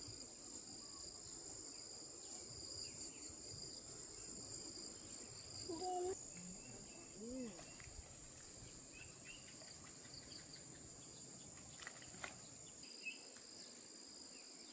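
Insects chirring steadily in a high, unbroken drone, with a few brief faint calls about six to seven seconds in.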